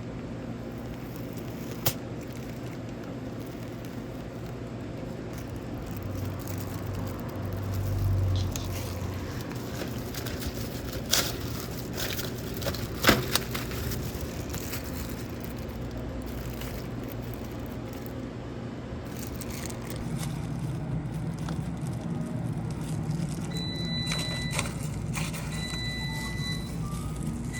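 Steady low hum of cafe kitchen equipment with a few sharp clicks and knocks, the loudest about halfway through, and several short high electronic beeps near the end.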